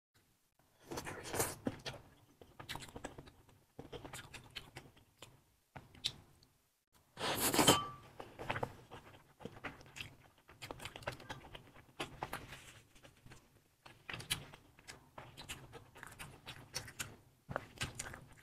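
Close-up eating sounds of spicy sauced sausages being chewed: irregular bursts of chewing and wet mouth clicks, with one louder burst about halfway through.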